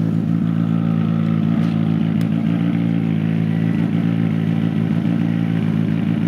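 Rally car engine idling steadily at one even pitch, with no revving.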